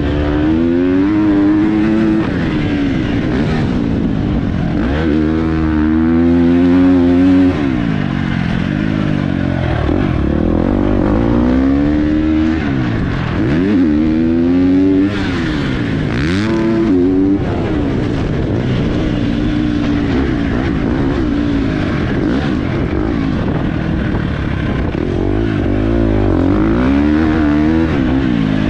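Motocross dirt bike engine ridden hard around a track, its pitch climbing and dropping back over and over as the throttle is opened and shut.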